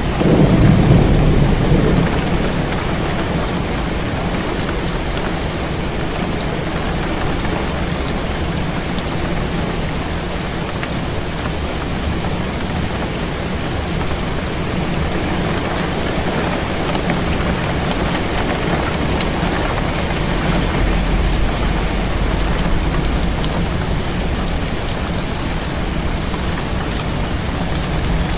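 Heavy rain falling steadily, with a rumble of thunder right at the start and a softer low rumble about twenty seconds in.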